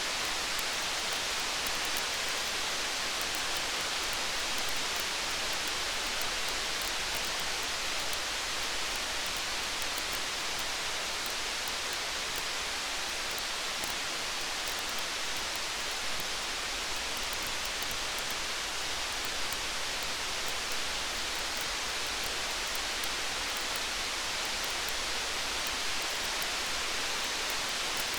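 Steady rain: an even, unbroken hiss, with faint fine ticks.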